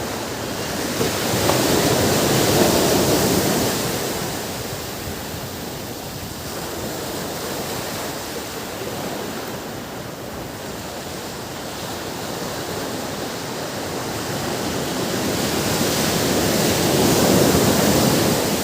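Ocean surf breaking on a beach: a steady wash of waves, with two larger waves swelling and breaking, one about two seconds in and one near the end.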